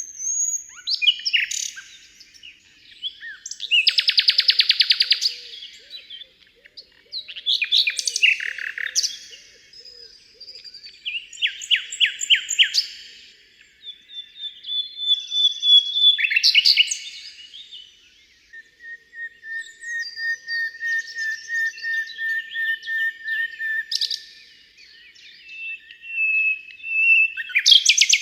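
Common nightingale singing a run of varied phrases, each a second or two long with short pauses between. There are fast rattling trills and whistles, and in the second half a long string of repeated notes on one pitch.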